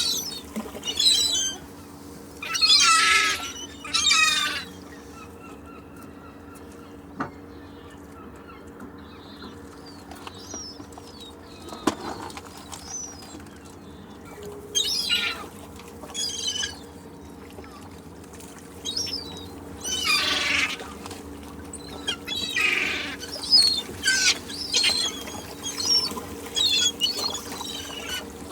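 Seagulls calling: loud squawking calls in scattered bouts, several in quick succession near the start and again through the second half. A steady low hum runs underneath.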